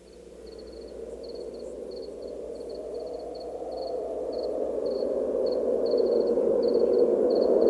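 Crickets chirping in short repeated trills over a low rushing swell that grows steadily louder, a sound-effect intro building toward the song's entrance.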